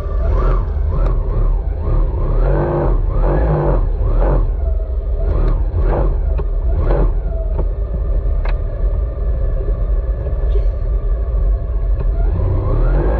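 Jet ski engine running at speed, a steady drone that swells and wavers repeatedly over the first half and rises in pitch near the end as it speeds up.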